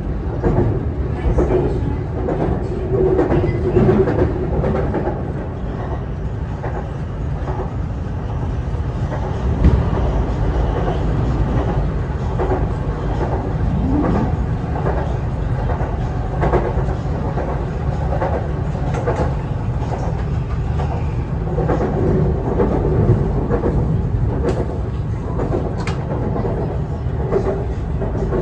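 Bangkok BTS Skytrain EMU-B1 train running, heard from inside the car: a steady low rumble of wheels on the track with scattered clacks, and a short rising whine about halfway through.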